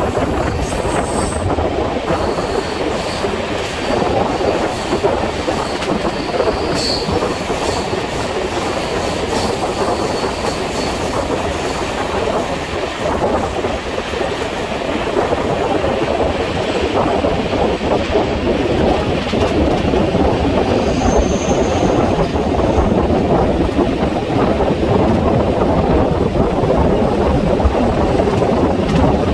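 Passenger express train running at speed, with a continuous rumble and clatter of wheels on the rails and a faint high wheel squeal at times. The sound is sped up to twice normal speed.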